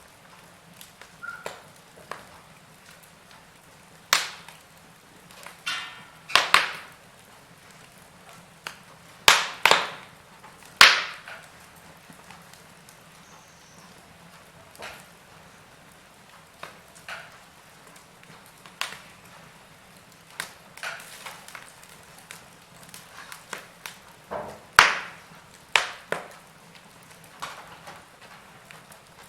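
Wood fire burning in a fireplace: burning logs crackling, with irregular sharp pops and snaps over a faint steady hiss. A few louder snaps stand out among the softer crackles, clustered from about four to eleven seconds in and again near twenty-five seconds.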